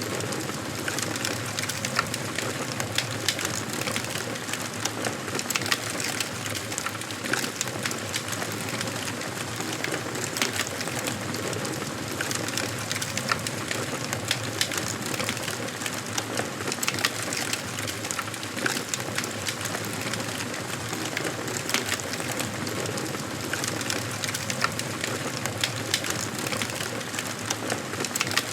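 Wood fire burning in a fireplace: a steady hiss of flames with frequent, irregular sharp crackles and pops from the burning logs.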